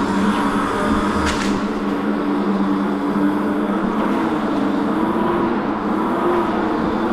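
Ebox dragster mini bike being ridden: a steady motor hum, wavering slightly, over wind and road noise.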